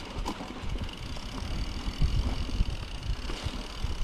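Wind buffeting the microphone with uneven rumble and scattered knocks from a mountain bike ridden fast over a snowy trail.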